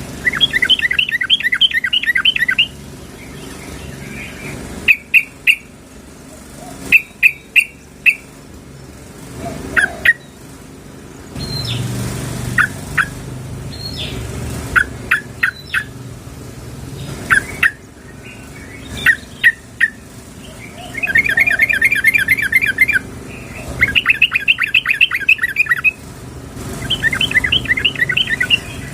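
Yellow-vented bulbul calls: rapid bubbling chattering phrases about two seconds long, alternating with short single notes and a few loud sharp notes. The calls are presented as a female calling to a male.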